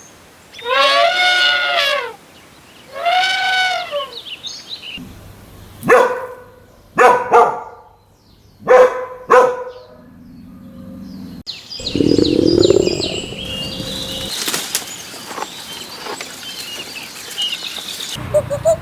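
A cow mooing twice in long drawn-out calls, then a dog barking five times in short sharp barks. A stretch of rustling, flapping noise follows.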